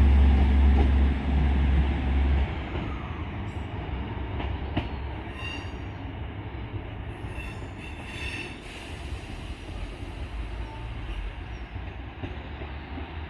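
Diesel multiple unit's engine drone, loud at first and dropping away about two seconds in as the train moves along the platform, with a few high-pitched metallic squeals from the train's wheels partway through.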